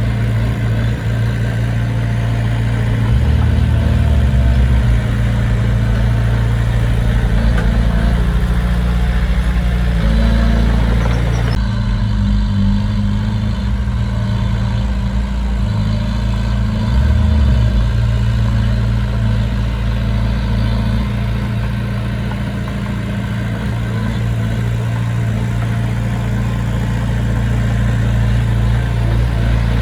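Diesel engine of heavy earthmoving equipment running steadily, swelling louder a couple of times as it takes load.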